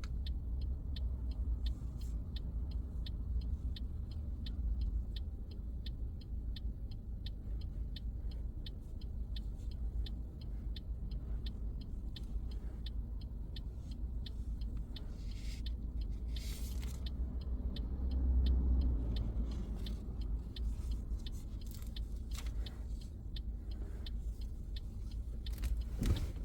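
Car cabin road and engine noise, a steady low rumble, with the turn-signal indicator ticking evenly at about three clicks a second through most of it.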